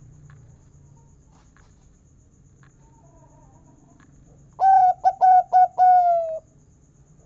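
Local zebra dove (perkutut) singing one call about four and a half seconds in: a quick run of short notes ending in a long, slightly falling 'kung' note.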